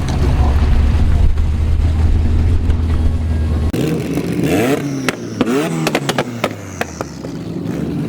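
Turbocharged Saab B204 four-cylinder with open screamer-pipe exhaust running at a deep, steady idle, then revving up and down about halfway through with a string of sharp cracks from the exhaust.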